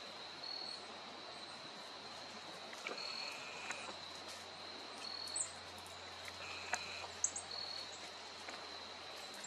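Insects trilling steadily in a high, unbroken tone that swells briefly about every two seconds, with a few short high bird chirps over it.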